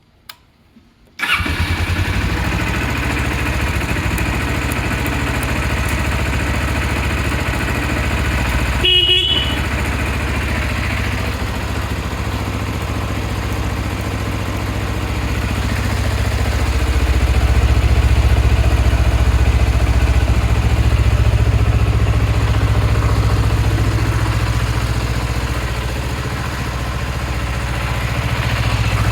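Kawasaki ZZ-R250's parallel-twin engine starting about a second in, then idling steadily. A short beep sounds about nine seconds in, and the engine note swells louder for a few seconds around the middle and again near the end.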